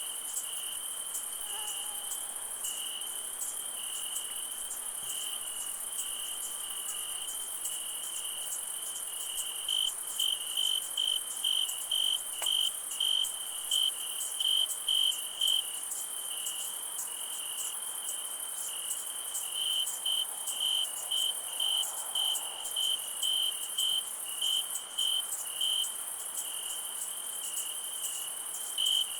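Night insect chorus: a steady high-pitched insect buzz with a cricket chirping in regular pulses, about two chirps a second, in runs that start about a third of the way in.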